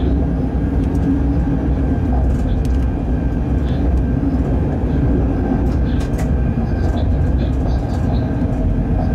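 Freight train locomotive running at speed, heard from inside the cab: a steady low rumble with a held hum, and faint clicks and rattles on top.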